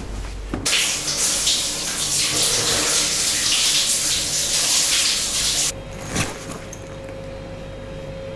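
Water running steadily from a tap. It is turned on suddenly about a second in and shut off about five seconds later.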